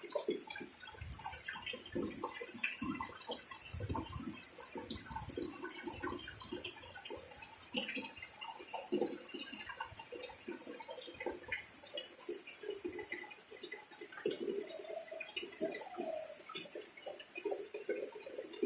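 Rain falling steadily, with many irregular drops ticking and splashing on surfaces.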